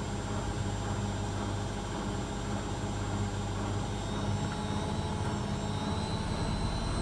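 Zanussi ZWC 1301 washing machine in its final spin: motor and drum running steadily with a low hum and a high whine that starts to climb in pitch about four seconds in as the spin speed rises.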